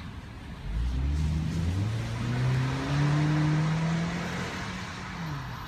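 A car accelerating up through the gears, its engine pitch climbing in steps with brief breaks between them, then easing off with a falling pitch near the end.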